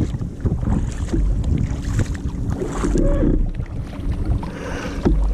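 Wind buffeting the microphone over the water sounds of kayak paddling. A brief pitched sound, rising then falling, comes about three seconds in.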